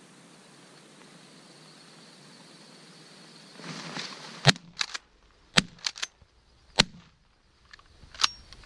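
Shotgun shots at mallards: three loud reports about a second apart, each followed by smaller clicks, and one more sharp crack near the end.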